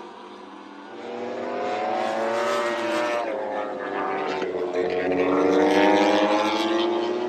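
Moto3 racing motorcycles at full throttle passing on the track, their high-revving engines climbing in pitch, dropping back at an upshift and climbing again, getting louder to a peak about six seconds in and then easing.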